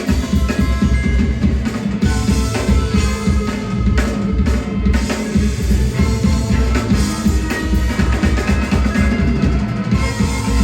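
Rock band playing live at full volume, with the drum kit prominent and a steady kick-drum beat under sustained instruments.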